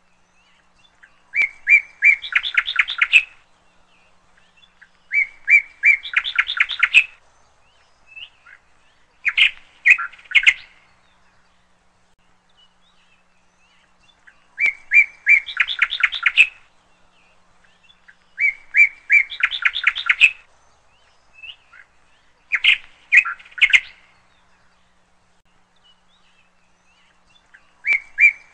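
A songbird singing a short phrase over and over, a few separate chirps running into a fast trill, with quiet gaps of a couple of seconds between phrases.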